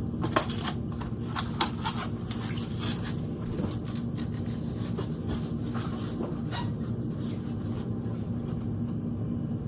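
Ground meat being mixed with onion and egg in a bowl for burger patties: soft rubbing and a few light clicks over a steady low hum.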